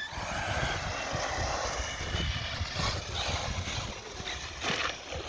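Two electric 2WD short course RC trucks with brushless motors driving away on pavement: a thin, high motor whine over tyre hiss, rising and falling with the throttle.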